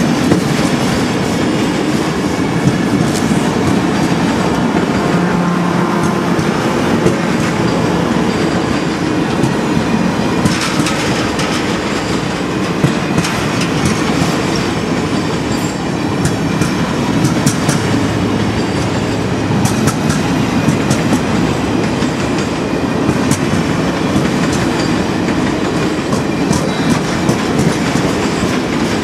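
A long train of passenger cars rolling past at close range: a steady rumble of wheels on rail, broken by frequent sharp wheel clicks.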